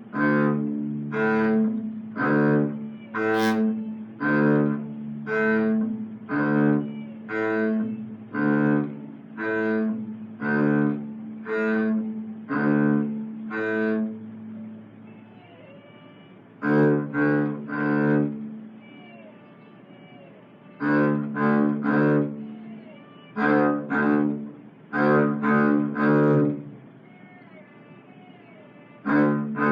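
Double bass playing a simple tune in short, evenly spaced notes, about two a second. In the second half the playing stops several times for a second or two between phrases.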